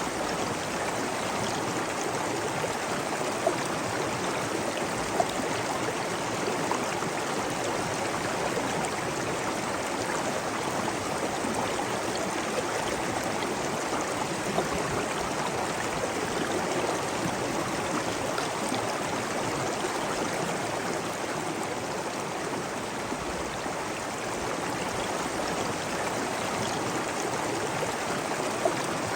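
Water rushing and splashing steadily, like a stream or waterfall, with a few brief sharper splashes or drips now and then.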